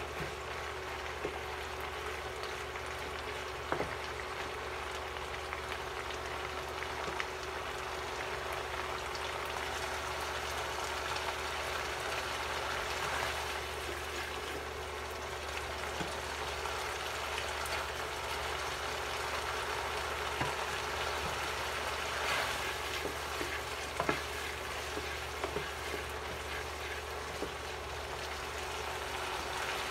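Chorizo, onion and garlic sizzling in oil in a nonstick frying pan while being stirred with a wooden spatula, with scattered light clicks of the spatula on the pan. A steady faint hum sits underneath.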